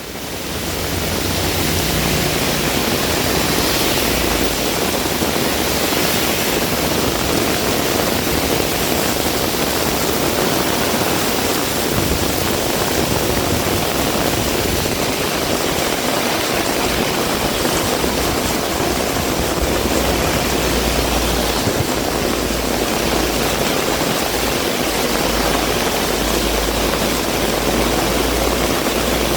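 Heavy rain pouring down in a steady loud hiss, with a low, uneven rumble of strong wind underneath. The sound fades in at the start.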